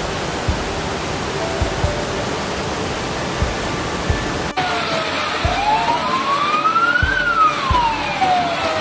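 A steady rush of floodwater. About halfway through, a sudden cut brings in a siren wailing slowly up and down, one long rise and fall and the start of another.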